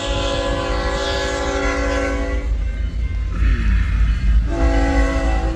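Freight locomotive's multi-chime air horn sounding a long blast of about two and a half seconds, then a second blast starting near the end, over the low rumble of the approaching double-stack intermodal train.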